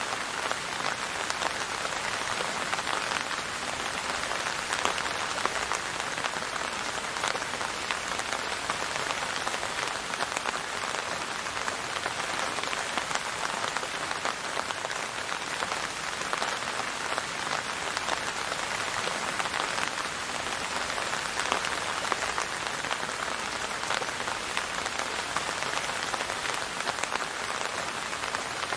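Steady rain falling and pattering on a surface, a dense even hiss of many small drop ticks with no thunder.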